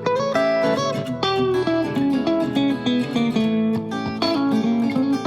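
Background music: plucked guitar playing quick picked notes.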